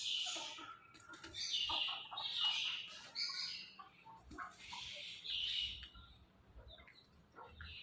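Birds calling in a series of about six short chirps, each roughly half a second long, with gaps between them.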